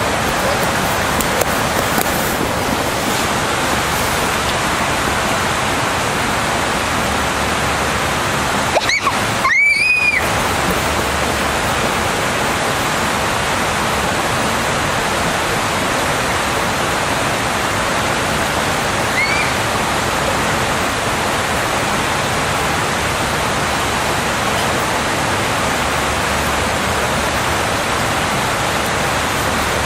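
Steady rushing of flowing river water. A short high chirp-like tone cuts in about ten seconds in, and a fainter one comes near twenty seconds.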